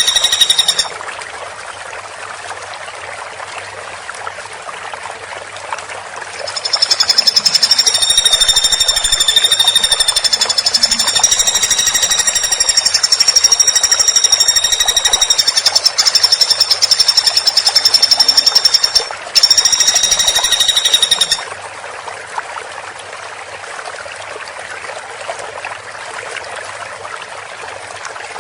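Woodpecker giving a rapid, high-pitched rattling call: a short burst at the very start, then a long unbroken rattle of about twelve seconds, a brief pause, and one more two-second rattle, over a steady background hiss.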